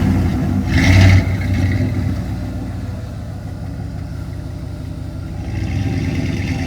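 Chevrolet Z71 pickup truck engine revving under acceleration, with a surge about a second in, then easing to a steadier drone that builds a little again near the end.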